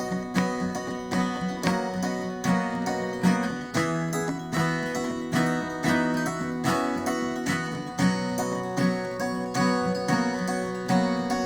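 Acoustic guitar strummed in a steady rhythm, an instrumental passage between sung verses of a song.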